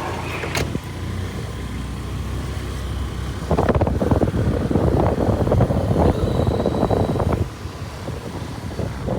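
Street traffic: a steady low road rumble that grows louder and rougher for about four seconds in the middle, as if a vehicle passes close, then eases off.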